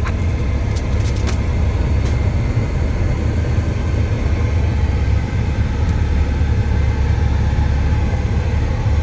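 Semi truck's diesel engine idling, a steady low rumble heard from inside the cab. A few faint clicks in the first second or so.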